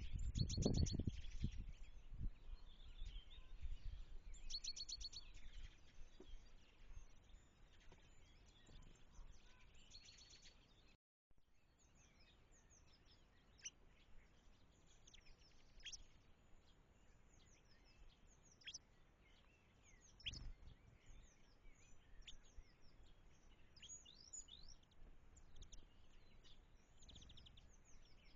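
Birds calling: a short, rapid high trill repeats every few seconds, then, after a sudden break, many brief high chirps overlap as from a flock. A low rumble sits under the first couple of seconds.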